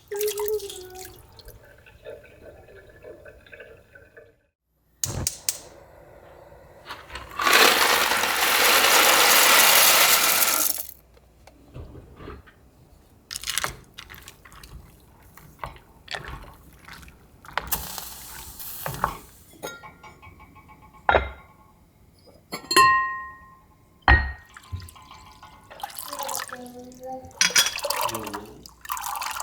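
Water running from a tap for about three seconds, the loudest sound, with shorter splashes of running water and scattered clinks and knocks of glass and containers. Two of the clinks ring briefly with a clear tone.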